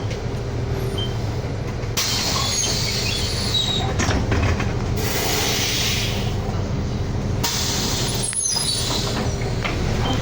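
City bus engine running, heard inside the cabin as a steady low hum, with a loud hiss of road and air noise joining about two seconds in and a few short high squeaks near the end.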